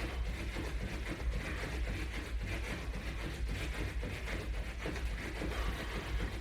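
Rhythmic footfalls of a person jogging in place against resistance bands, over a steady low hum.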